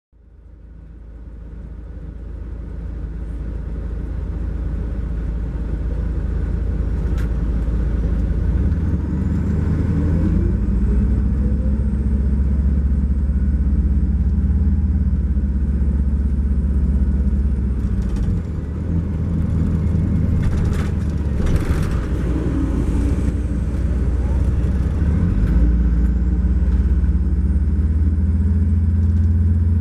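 Cummins ISX12 diesel engine of an MCI J4500 coach heard from aboard as it drives, a low drone that fades in at the start and changes pitch several times. Brief rattles sound about two-thirds of the way through.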